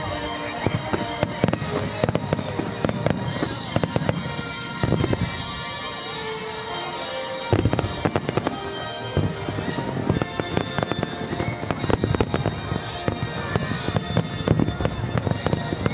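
Aerial firework shells bursting in quick succession: a dense, unbroken string of bangs and crackles, with music playing underneath.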